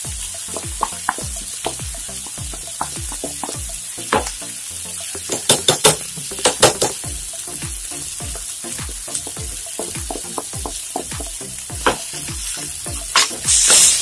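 Ground spices sizzling in hot oil in a nonstick frying pan while a spatula scrapes and stirs them through an onion-tomato masala. There are sharp clicks of the spatula on the pan around the middle. This is the stage where the spice powders are fried to cook off their raw smell.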